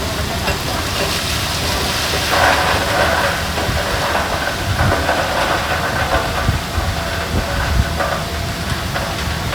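Heavy diesel earthmoving machinery running steadily, with a rough hissing, rattling noise over the engine from about two seconds in until near the end.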